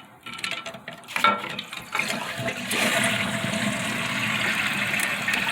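A few light clicks, then from about two seconds in a steady rush of water in an open toilet tank, growing louder a moment later.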